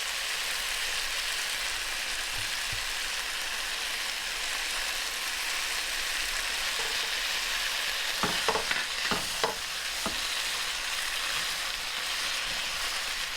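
Sliced onions and bell peppers sautéing in olive oil in a frying pan, a steady sizzle. A few short knocks of a utensil against the pan a little past halfway, as the vegetables are stirred.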